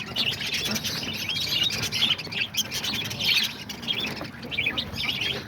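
A flock of budgerigars chattering and chirping without a break, many short calls overlapping.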